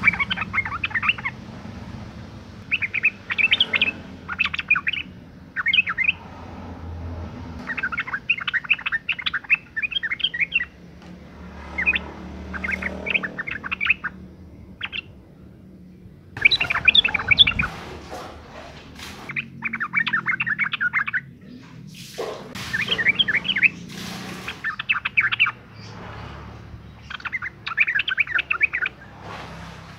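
Female yellow-vented bulbul calling in repeated short bursts of quick chattering notes, each a second or two long with brief pauses between, the call used as a lure to set male bulbuls singing. A faint low hum runs underneath.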